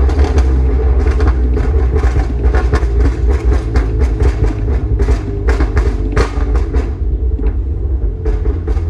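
9th-generation Honda Accord's 3.5-litre V6 running through a Borla axle-back exhaust, a steady deep rumble with little change in pitch. Irregular sharp clicks or knocks come over it all through, thinning out after about seven seconds.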